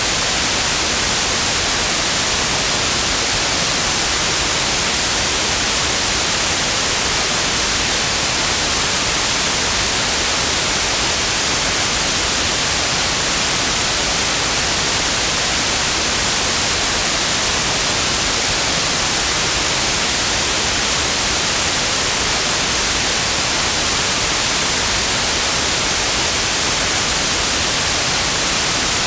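Synthetic white noise: a steady, even hiss, loudest in the high frequencies, with no change in level.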